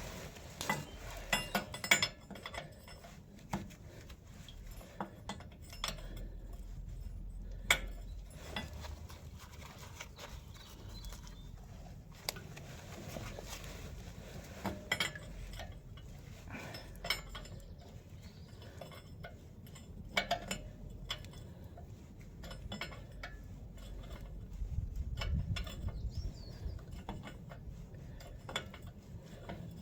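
Irregular metallic clicks, clinks and knocks of a spanner working on nuts and bolts as the fittings holding an old engine's fuel tank are undone.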